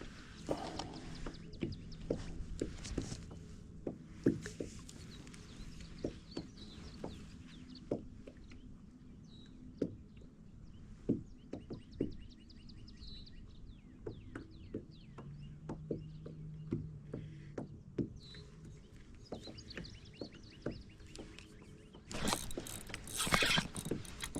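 Scattered light knocks and clicks of fishing gear being handled against a kayak, with a louder rush of noise about 22 seconds in.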